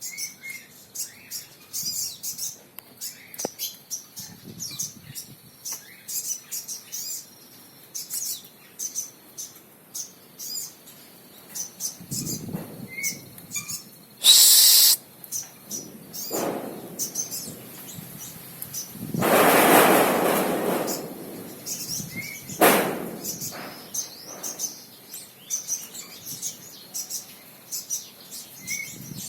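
Crimson sunbird (sogok ontong) singing a rapid run of short, sharp, high chirps. Its song is broken by a loud hiss about halfway through and a longer rushing noise a few seconds later.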